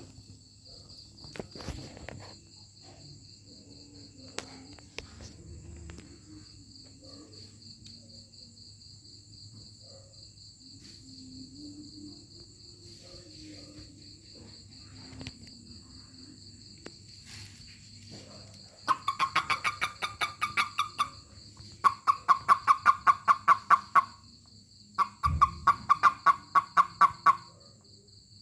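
Toad calling in three bouts of rapid pulsed chirps, about eight pulses a second and each bout about two seconds long, starting past the middle: the release call a toad gives when it is touched. Crickets trill steadily throughout.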